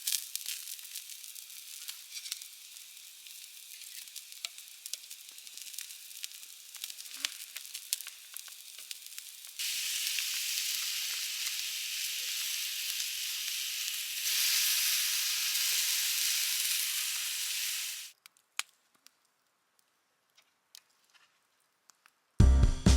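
Tuna steak frying in a hot pan, a crackling sizzle with many small pops that becomes a louder, steadier sizzle about ten seconds in and breaks off abruptly after about eighteen seconds. Music with drums starts near the end.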